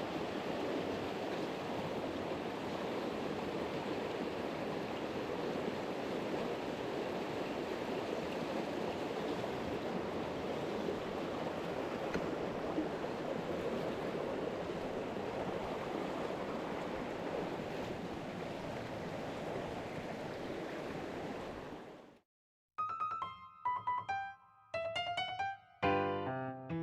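Steady rush of a mountain stream's flowing water, which cuts off abruptly about 22 seconds in. Piano-like keyboard music with single picked-out notes follows.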